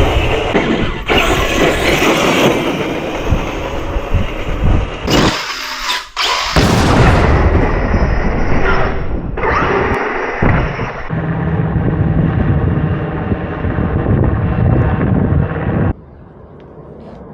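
Large electric RC cars being driven hard over rough ground: motor whine and tyre and chassis noise, loud and jumbled. The sound cuts off abruptly twice.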